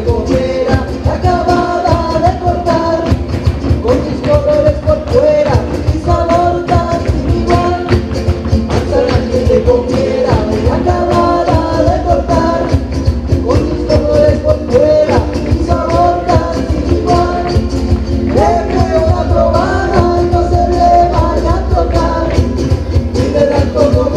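Live band playing Latin music, with singing over a dense, steady percussion beat.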